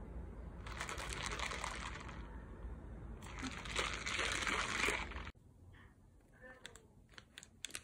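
Iced boba milk tea sloshing in a plastic cup as it is tilted and swirled, in two swells. After it stops suddenly, a few short crinkles of a paper wrapper come near the end.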